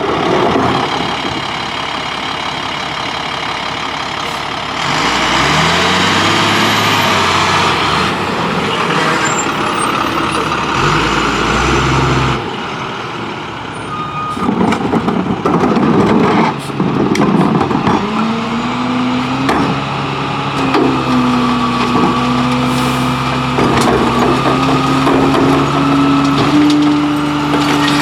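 International garbage truck with a New Way Viper side-loader body running, its engine pitch rising and falling, with hissing and a run of knocks. In the second half a steady tone climbs slowly in pitch.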